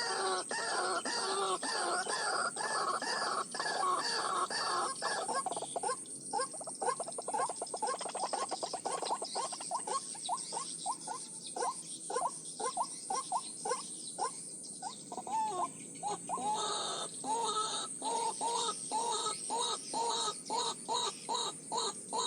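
White-breasted waterhen (ruak-ruak) calling over and over, several calls a second, the calls coming faster in the middle.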